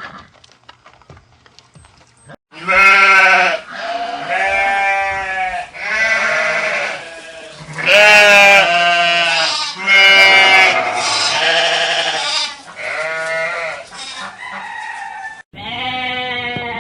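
Bleating livestock calling over and over: about eight loud, wavering calls, each around a second long, starting a couple of seconds in.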